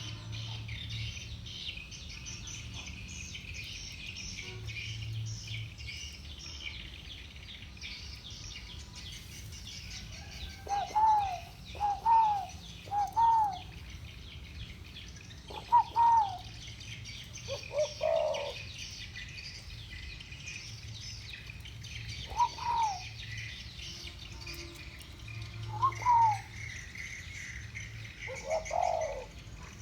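Spotted doves cooing in the deep 'thổ bầu' voice: from about ten seconds in, a run of three curved coo notes, then single and paired coos repeating to the end. A steady high chirring runs underneath throughout.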